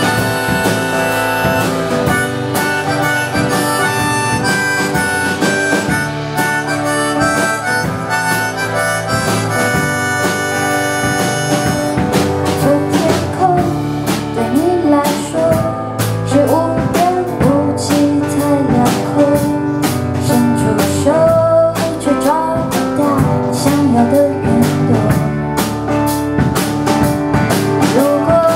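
Instrumental break of a pop-rock song: a harmonica plays a melody over guitar and bass, with the second half full of bending, sliding notes.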